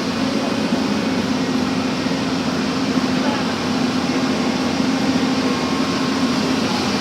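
Backhoe engine running steadily, a constant low drone with mechanical noise and no change in speed.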